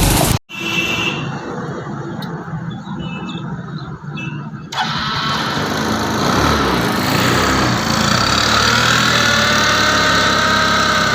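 Suzuki Access 125 scooter's single-cylinder engine running, getting louder about five seconds in, with its pitch drifting slightly up and down.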